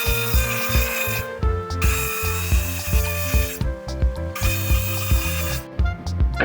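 Background music with a steady beat over a hissing metalworking tool noise. The hiss cuts out twice for about half a second and stops near the end.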